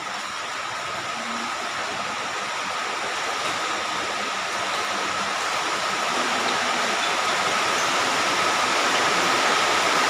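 Steady rain falling, growing gradually heavier and louder, with a thin steady high tone running underneath.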